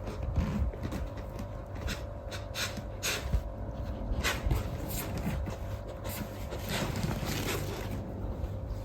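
A dog breathing and snuffling in short, irregular puffs, over a faint steady hum.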